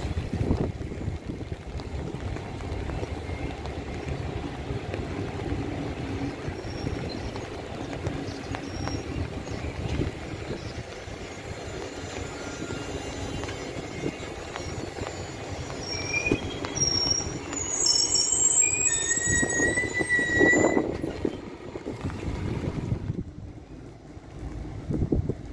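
A train of Medie Distanze passenger coaches rolling along the track with a steady wheel rumble. A few high-pitched wheel squeals come about two-thirds of the way through as the end of the train passes, and then the sound fades away as the train leaves.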